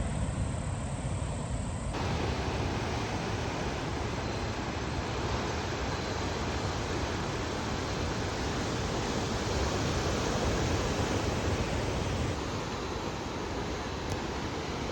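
Steady rushing noise of coastal wind and sea surf, without distinct strokes, growing brighter about two seconds in.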